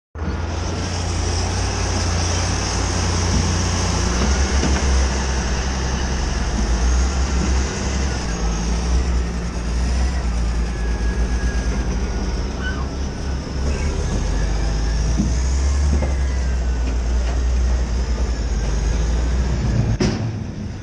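Heavy earthmoving equipment working: a loud, steady low diesel rumble with a high hiss over it, and a sharp knock just before the end.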